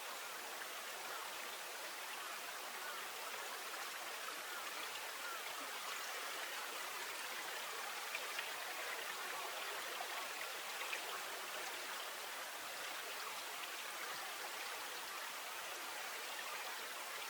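Steady hiss of running water, with a few faint ticks or drips about eight and eleven seconds in.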